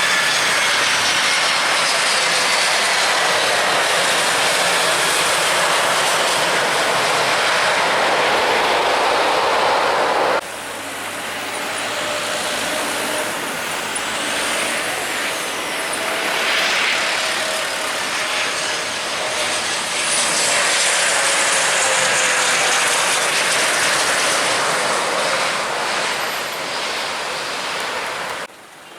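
Jet airliner engines running loud as an aircraft passes close by, the engine whine slowly falling in pitch. About ten seconds in the sound cuts abruptly to a second jet passing, again with a falling whine, which cuts off near the end.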